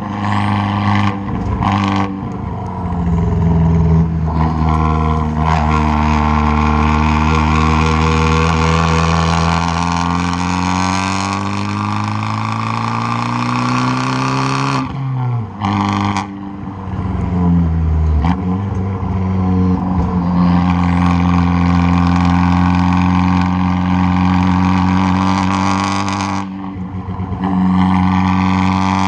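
Exhaust of a tuned, straight-piped 2013 Fiat 500 Abarth's 1.4-litre turbocharged four-cylinder pulling hard, heard right at the tailpipe. The engine note climbs steadily for over ten seconds, drops sharply about halfway through, then climbs again and holds, with another brief drop near the end.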